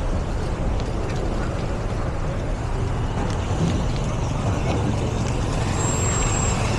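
Steady low rumble of street traffic and wind on the microphone during a bicycle ride, with a brief thin high squeak about six seconds in.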